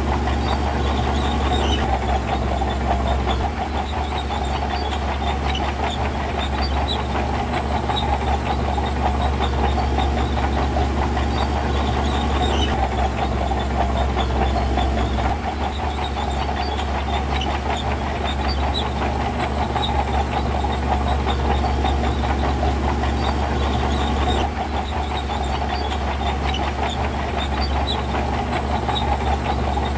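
Heavy diesel earthmoving machinery running steadily, with the level dipping slightly a few times.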